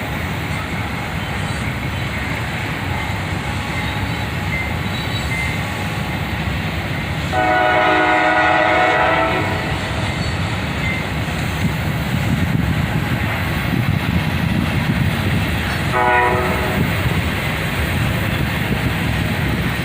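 CSX GE AC4400CW diesel locomotive leading a ballast train past, with a steady low rumble of the engine and rolling cars. Its air horn sounds a chord for about two seconds around seven seconds in, and a shorter blast near the end.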